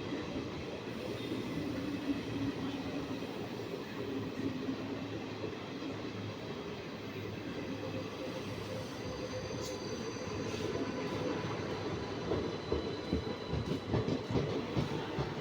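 Railway train passing on the track: steady rumble of wheels on rails, with faint high-pitched wheel squeal partway through and a run of sharper clacks over rail joints in the last few seconds.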